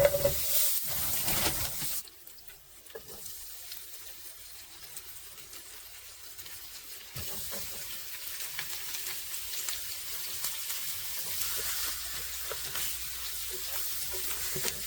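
Butter heating in a pan on a portable gas stove: a steady hiss with fine crackling that steps up about seven seconds in and keeps building gently toward frying. The loudest part is a brief stretch of handling noise in the first two seconds.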